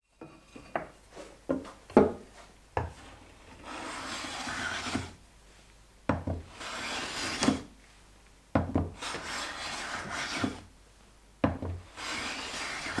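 A hand tool working wood: a few light knocks, then four long rasping strokes across the wood, each starting with a knock as the tool meets the workpiece.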